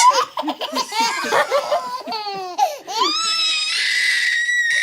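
Baby laughing in bursts and squealing, ending in one long high-pitched squeal.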